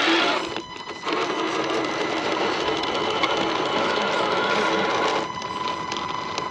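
Whirr of a 1/10 scale RC rock crawler's Hobbywing Fusion brushless motor and geared drivetrain as it crawls over rocks. It pauses briefly about half a second in, runs steadily again, then eases off about five seconds in.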